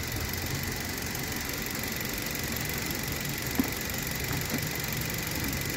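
Car engine idling steadily with the air-conditioning compressor not cutting in, and a light click about three and a half seconds in.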